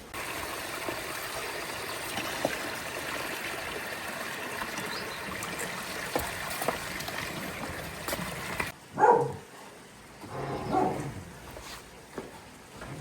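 A steady rush of running water that cuts off abruptly, then a dog barks a few times.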